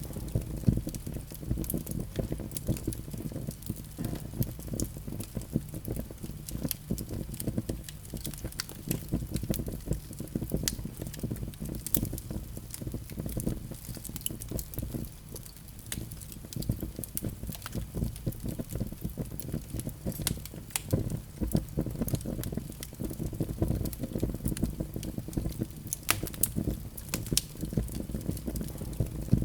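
Wood fire crackling in a fireplace: dense, irregular snaps and pops over a low, steady rumble of the flames.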